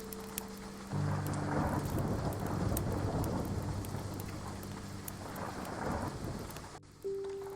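Steady rain falling with deep rolling thunder. The rumble swells about a second in, and the sound cuts out briefly near the end before the rain and rumble return.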